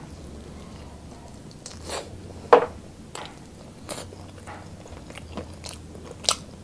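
Close-up eating sounds of spicy sauced fried chicken wings: chewing with wet mouth noises and finger-sucking, broken by a handful of sharp smacks and crunches, the loudest about two and a half seconds in.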